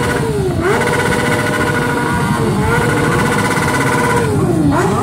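Motorcycle engine revved hard while standing. Twice the revs climb quickly and hold at a steady high pitch for a second or two, then drop back, and they start climbing again near the end.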